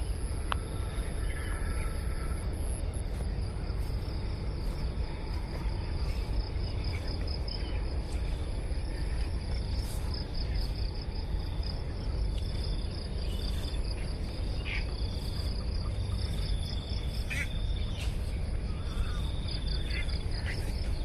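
Insects trilling steadily in high, fast-pulsing tones over a constant low rumble, with a few short chirps in the second half.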